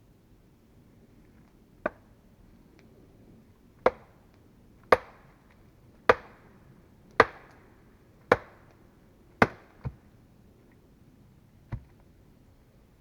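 Sharp blows of a hand tool striking wood: about nine separate knocks roughly a second apart, the ones in the middle loudest, with a quicker double knock about ten seconds in.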